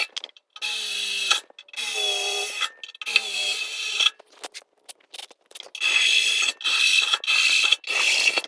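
Electric drill boring holes through a steel truck frame, run in repeated bursts of about a second with short stops between them.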